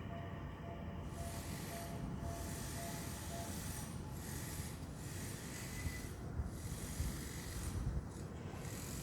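Japanese railway level-crossing warning bell ringing in an even, quick repeat for the first few seconds, joined from about a second in by a steady rushing hiss that swells and dips.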